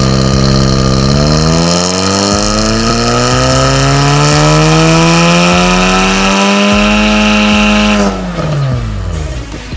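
Audi A4 45 TFSI's turbocharged EA888 four-cylinder on a dyno, making a full-throttle pull through its Stone catalytic downpipe and valved cat-back exhaust. The engine note climbs steadily in pitch for about seven seconds, then drops away when the throttle is released near the end.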